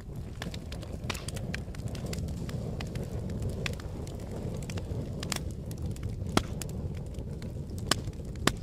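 Fire burning with a low steady rumble and frequent sharp crackling pops, three louder pops coming in the last couple of seconds.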